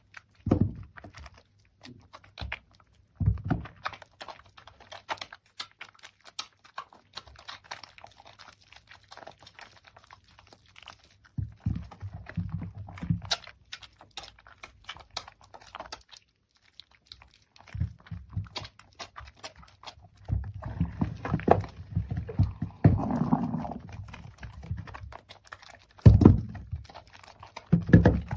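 Hands lathering wet soap and squeezing foam: irregular sticky squelches and fine crackling clicks, with a denser stretch of squishing about two-thirds of the way in and a few heavier wet thuds.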